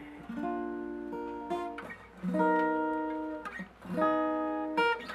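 Acoustic guitar playing a slow song intro: about six chords strummed, each left to ring and fade before the next.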